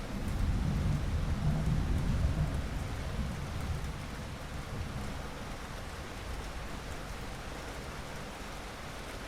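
Steady rain falling, with a low roll of thunder that rumbles loudest in the first couple of seconds and dies away by about four seconds in.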